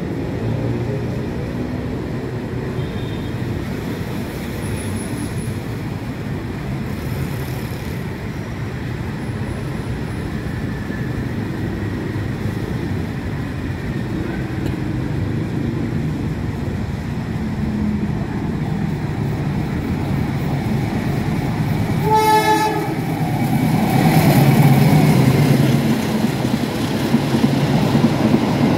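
Long-distance passenger train hauled by a diesel locomotive, approaching through a station with a steady rumble that grows louder. The locomotive's horn gives one short blast about three quarters of the way through, and the train then runs past close by, at its loudest.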